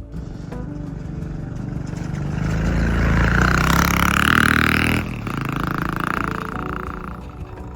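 A motor vehicle engine passing close by. It grows louder to a peak around four seconds in and drops off abruptly about five seconds in, then swells briefly once more.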